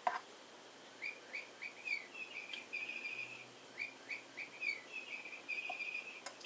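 A songbird singing two phrases, each a run of quick down-slurred chirps leading into a short trill. There is a single click at the very start.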